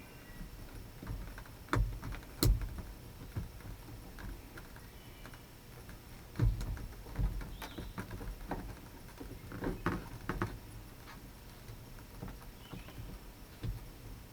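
Scattered clicks and knocks of hand work on a pickup truck's door and handle parts, with a few sharper knocks about two seconds in and again around six to seven seconds in.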